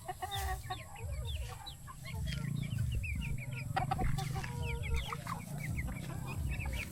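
A flock of young chickens peeping and chirping, many short high calls overlapping, over a low rumble.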